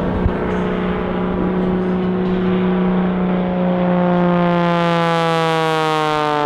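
Pitts S2S aerobatic biplane's piston engine and propeller droning loud and steady, the pitch sliding down over the last couple of seconds as the plane passes by.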